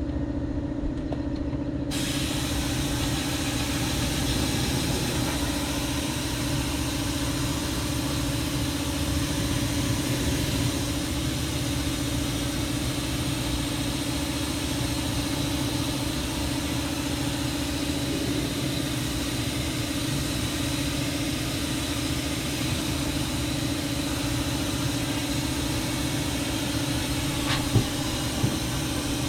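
Air-powered undercoating spray gun hissing steadily as it sprays rubberized undercoating, starting about two seconds in, over a constant machine hum. A single sharp click near the end.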